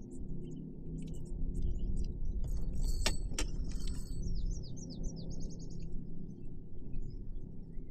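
Small birds chirping, with a run of short falling notes and then a quick trill about halfway through, over a low steady background hum. A single sharp click sounds near the middle.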